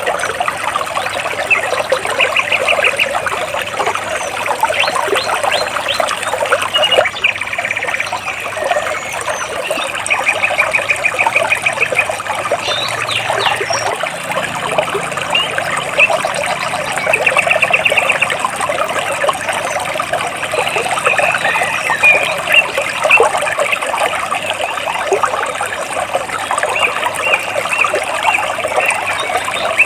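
Stream water trickling and splashing between large rocks, a steady rushing babble, with birds chirping over it in short rapid trills that come back several times.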